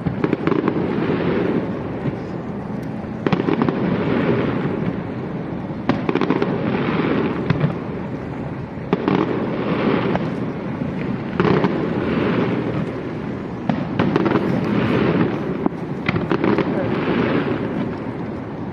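Aerial fireworks display: a steady run of shell bursts, each a sharp bang followed by crackling, about one every two seconds.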